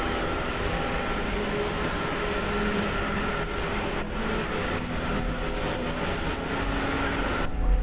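Steady running noise of an Airbus A380 taxiing after landing, with faint steady tones in it. The sound changes abruptly near the end.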